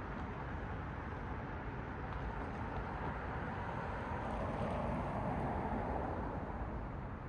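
A car passing on the road, its tyre noise swelling to a peak about five seconds in and then fading, over a steady hum of traffic.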